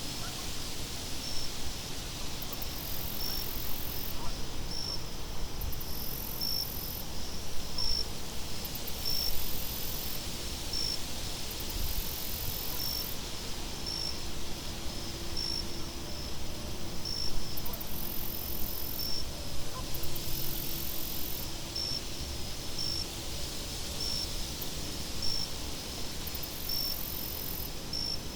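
Crickets chirping about once a second, with a very high insect trill coming and going in spells of a second or two, over a low, gusty wind rumble.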